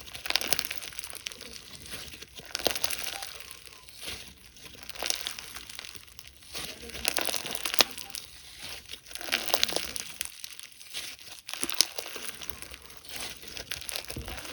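Slime being squeezed and pressed by hand, giving rising and falling runs of crackling with sharp little clicks and pops.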